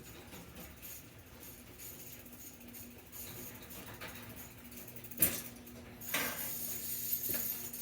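Small metal parts or tools being handled: light clinks and rattles over a faint steady hum, a sharp click about five seconds in, then a brief jangling rattle near the end.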